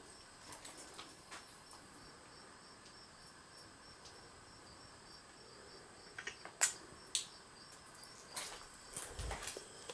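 Insects chirping in a steady, evenly pulsing high trill, like crickets. From about six seconds in, a few sharp clicks and footsteps.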